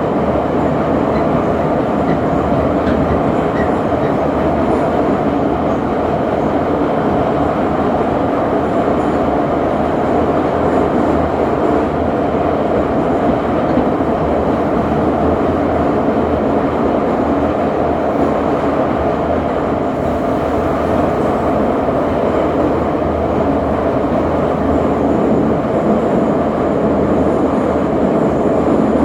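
Metro train running at speed between stations: a steady, even rumble of wheels on rail and running gear that holds at one level throughout.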